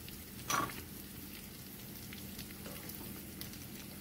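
Tacos dorados (thick corn tortillas filled with beef and raw potato slices) frying in hot oil in a skillet: a steady sizzle with fine crackling spatter. A brief louder sound about half a second in.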